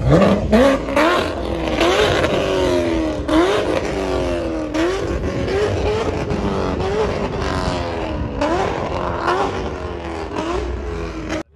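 A car engine revved hard over and over, its pitch climbing and then falling back roughly once a second. It cuts off suddenly near the end.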